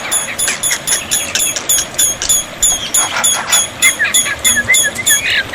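Black-winged myna (jalak putih) song: a rapid series of short, high chirps, about four or five a second, with lower whistled notes coming in near the end.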